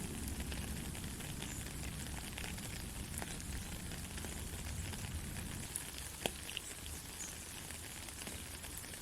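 Soft rain falling: a steady hiss with scattered ticks of single drops, and one sharper drop about six seconds in.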